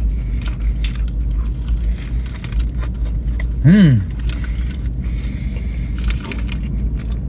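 A man chewing a sandwich, with small crinkles and clicks of its paper wrapping, over a steady low car-interior rumble. A little under four seconds in he gives a short hummed "mmm" that falls in pitch.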